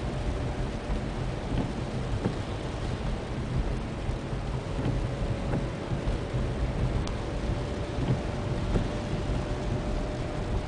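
Cabin noise of a 2003 VW Jetta VR6 on the move: steady road and drivetrain rumble with a thin, steady whine over it. The whine is the noise the owner puts down to the 02M six-speed manual transmission or its differential, a fault he is still troubleshooting.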